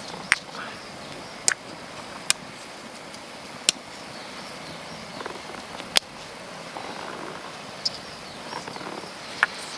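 About seven sharp clicks at irregular intervals over a steady outdoor background hiss.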